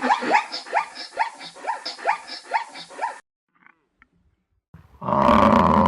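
Animal calls: a rapid run of about a dozen short, pitched calls, roughly four a second, then after a silence of about a second and a half, a loud, drawn-out call near the end.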